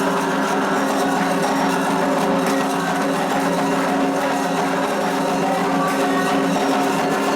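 Candomblé ceremonial music for Xangô: a continuous, steady sung chant.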